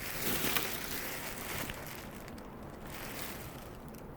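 Soft rustling of dresses being handled and moved, a little louder in the first two seconds and then fainter.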